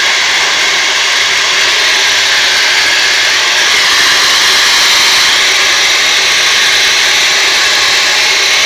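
Tornado 3800 1500-watt hair dryer running at its top fan speed with the heat on setting 2: a loud, even rush of blown air with a faint steady motor hum.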